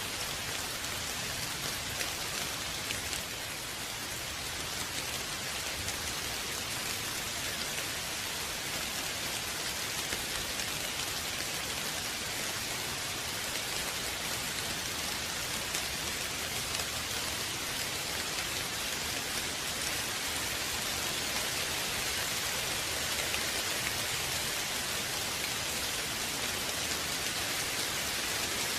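Steady rain falling, a dense even hiss of many drops that swells slightly toward the end.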